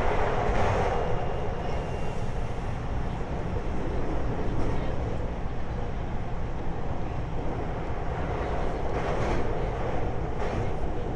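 A 521 series electric multiple unit train running, a steady rumble of wheels on rail that swells slightly about half a second in and again near the end.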